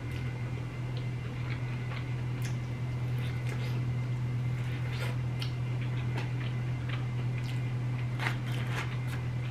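Close-miked eating of Cajun corn: biting and chewing, with frequent short wet mouth clicks and smacks. A steady low hum runs underneath.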